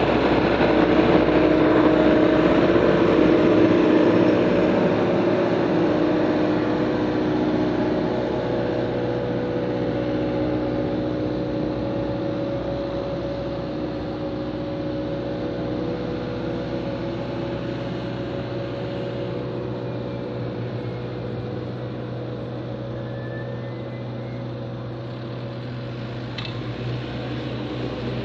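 Diesel engine of snow-clearing equipment running steadily, loudest in the first few seconds and then slowly growing fainter.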